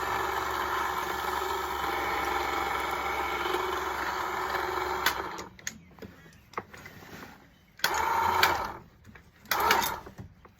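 Electric hoist motor running steadily as it winches the sailboat's engine up, stopping about halfway through; two short bursts of the same motor follow near the end.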